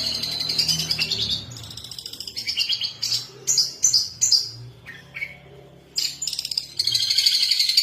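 Long-tailed shrike (pentet/cendet) in full song, giving fast, scratchy chattering phrases in bursts with a short lull around the middle.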